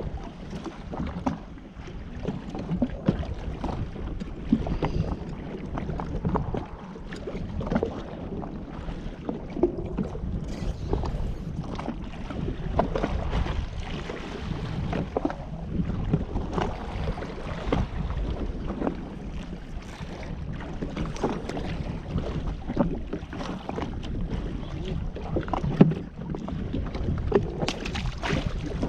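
Yamaha WaveRunner FX HO Cruiser jet ski running over the water, a steady low rumble with irregular slaps and splashes of the hull on the chop, and wind buffeting the microphone.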